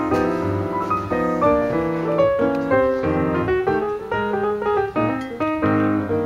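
Background piano music: a run of struck notes and chords.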